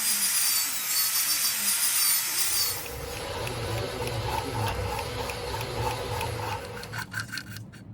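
A power tool runs with a high whine for about the first three seconds, then gives way to a lower, steadier machine hum, with a few sharp clicks near the end.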